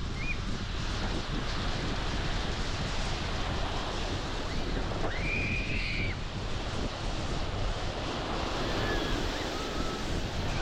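Wind gusting on the microphone over the steady wash of surf on a beach. A short high tone rises and falls about five seconds in.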